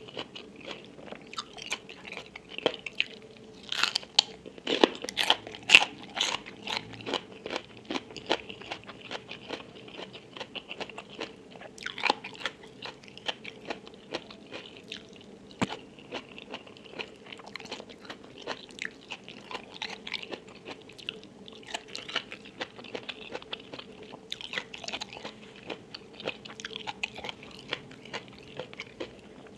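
Close-miked eating sounds: bites and steady chewing of crunchy food, with wet crunches coming in quick irregular runs. The loudest crunches come about four to six seconds in.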